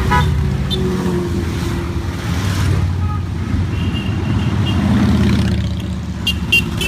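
Large group of motorcycles riding past in a steady stream, their engines making a continuous low rumble. Horns toot briefly at the start, and two short high beeps come near the end.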